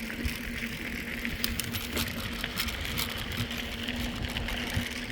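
Mountain bike rolling along a paved trail: tyre and wind noise on a hand-held phone microphone, with a steady low hum and a few light clicks.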